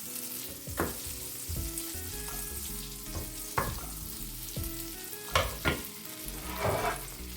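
Butter sizzling in a hot frying pan, with a few light knocks of a utensil against the pan.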